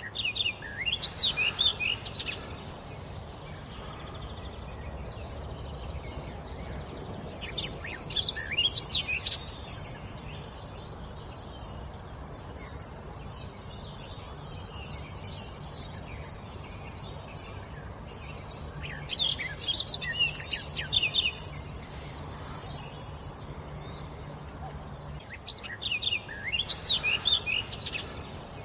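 A songbird singing: four short phrases of quick up-and-down whistled notes, each about two seconds long, with pauses of several seconds between them, over a steady low hum.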